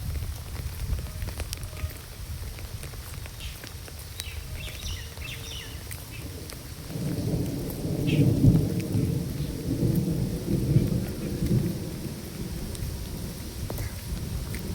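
Rain falling steadily, with a long rolling rumble of thunder that builds about halfway through and keeps going. A few short bird chirps come through before the thunder.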